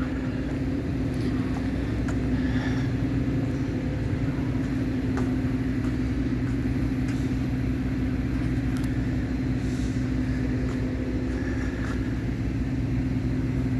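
Metra commuter train's diesel locomotive idling at the station platform, a steady hum.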